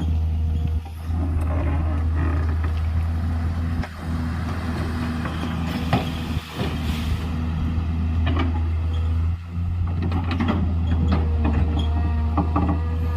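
Excavator's diesel engine running steadily under load, with scattered metallic clanks and knocks from the machine working.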